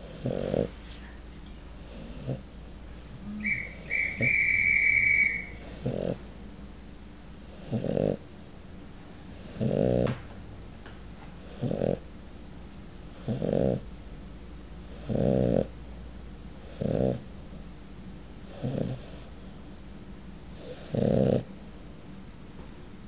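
French Bulldog snoring, a loud rasping snore about every two seconds. About three and a half seconds in, a loud, steady, high whistling tone sounds for under two seconds.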